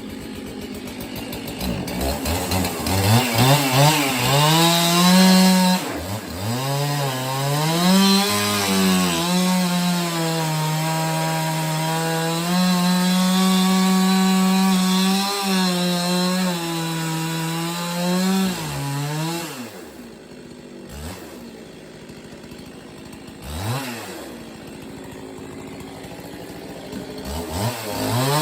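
Two-stroke chainsaw revving up and cutting through wood, its engine note holding high and sagging slightly under load. About two-thirds of the way through it drops back to a lower idle, with one brief blip of the throttle, then revs up again at the end.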